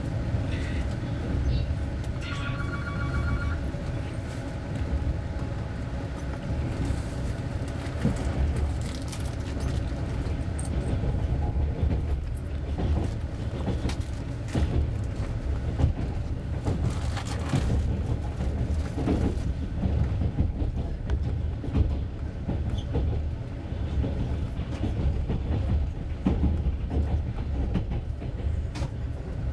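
Moving passenger train heard from inside a coach: a steady low rumble of the running gear with irregular clicks and clacks of the wheels over the rails. A short pulsing beep sounds about two seconds in.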